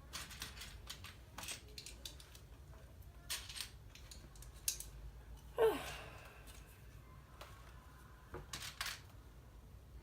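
Plastic LEGO pieces clicking and clattering as they are handled and pressed together, with scattered short clicks and one louder clatter just past halfway.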